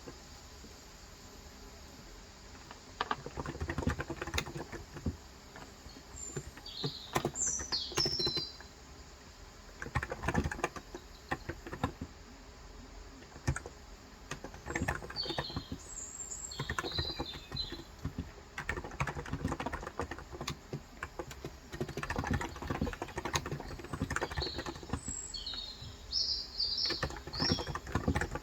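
Typing in irregular bursts on a COX Endeavor electrostatic capacitive (non-contact) tenkeyless keyboard with light 35 g switches. Birds chirp in short high calls between the runs of keystrokes.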